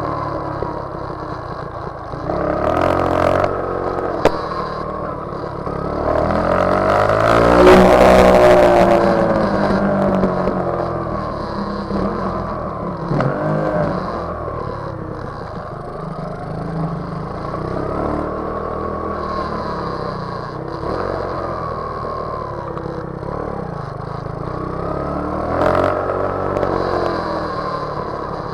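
Motorcycle engines revving up and down while riding, rising and falling in pitch again and again and loudest about eight seconds in, with a sharp click around four seconds in.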